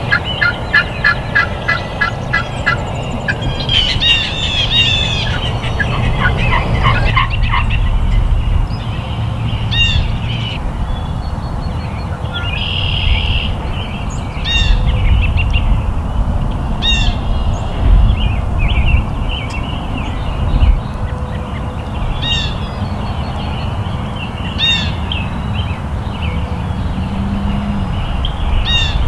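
Wild birds calling and singing: an evenly spaced run of notes in the first few seconds, then short, sharp chirps repeated every second or two, over a low steady rumble.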